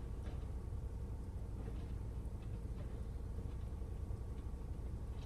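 Steady low rumble of a vehicle driving along an unpaved road, with a few faint ticks.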